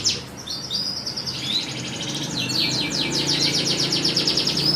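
Domestic canary singing: a run of chirps and fast rolling trills, with a long rapid trill in the second half.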